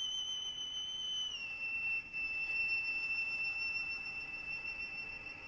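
Violin holding one very high note, which slides down slightly about a second in and then holds steady, growing a little quieter toward the end.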